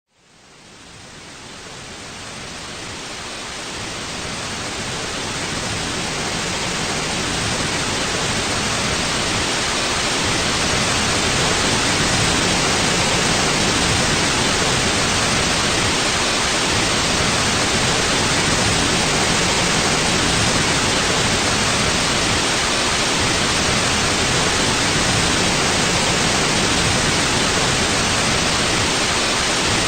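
Steady white-noise hiss with no pattern or pitch, fading in gradually over the first several seconds and then holding at a constant level.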